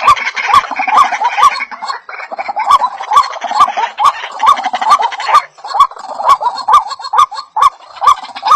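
White-breasted waterhen (ruak-ruak) calling: a fast, unbroken run of short, hoarse, upward-hooked notes, about two to three a second, with sharp clicks in between. It is a bird-trapper's lure recording, played to draw waterhens in.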